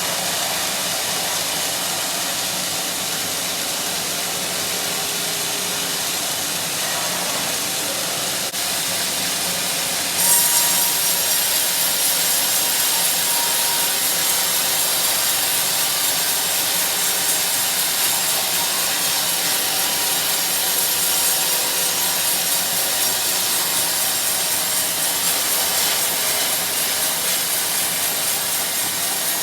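Sawmill saw running, then biting into a teak log about ten seconds in and cutting steadily with a louder, hissing rasp.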